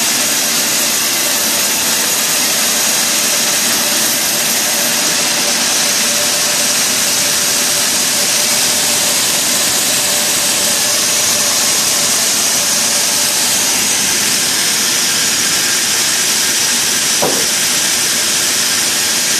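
Sawmill saw machinery running steadily: a loud, even, hissing noise with a faint steady hum underneath.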